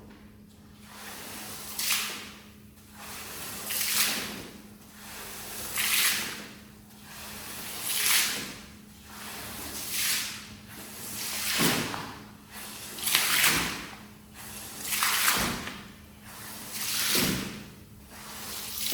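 A cleaning tool drawn across a wet shaggy rug in long swishing strokes, about one every two seconds, nine in all.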